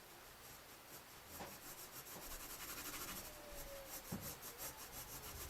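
Pencil scratching on paper: faint, rapid back-and-forth shading strokes that start about a second in and run on until near the end.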